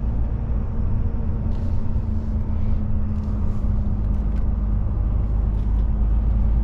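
DAF truck's diesel engine and tyres on the road heard from inside the cab: a steady low rumble with a held engine hum.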